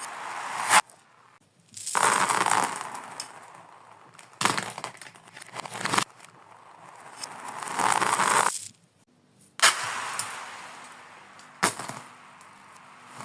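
Glass marbles rolling and clattering, played in reverse: a series of rushing swells that build up and cut off sharply, with a few clinks in between.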